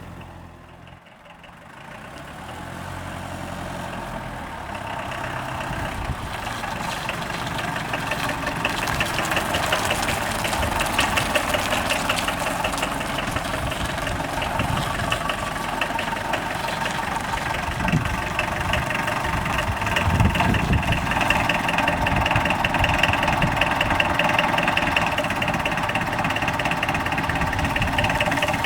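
Esslingen DZ 10 tow tractor's Mercedes OM 636 four-cylinder diesel running with a steady diesel clatter. It grows louder over the first several seconds, then holds steady.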